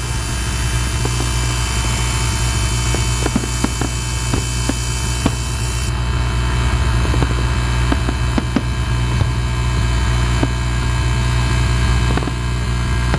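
Fireworks display: frequent sharp pops and crackles over a steady low rumble.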